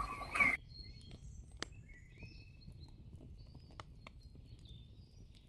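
Faint bird chirps with a few scattered clicks over a low background hum, after a man's voice stops just over half a second in.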